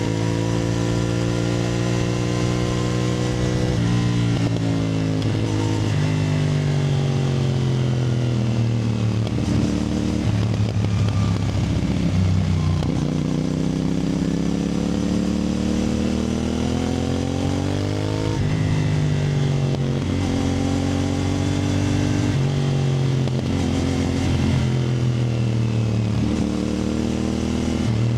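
CFMoto 450NK's parallel-twin engine pulling through the gears: the note climbs in each gear and drops sharply at each upshift, about four seconds in and again near eighteen seconds. It eases off around ten seconds in and again near the end before picking up again.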